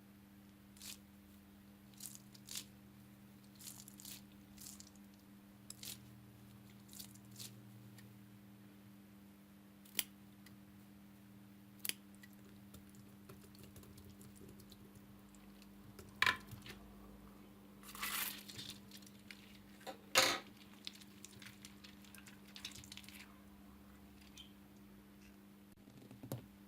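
Slime being squeezed and worked by hand: scattered small crackling clicks and squishes, with a few louder crackly bursts in the second half, the loudest about three quarters of the way through. A faint steady hum runs underneath.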